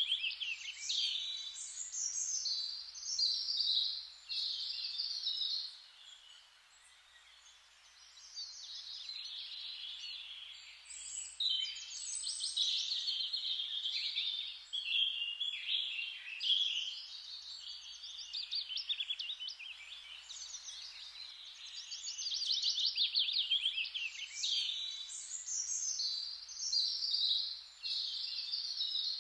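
Songbirds singing in a continuous chorus of rapid trills and chirps, with a quieter lull about six seconds in.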